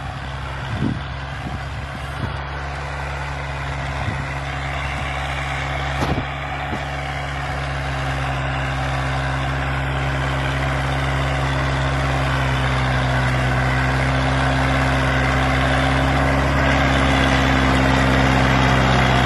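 Kubota tractor's diesel engine running steadily while driving a rotavator, growing gradually louder, with a few faint knocks in the first six seconds.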